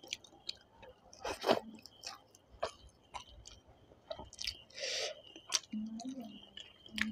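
Close-up eating sounds: wet chewing and lip-smacking clicks from someone eating rice and chicken curry by hand, with a couple of short breaths and a brief murmur about six seconds in.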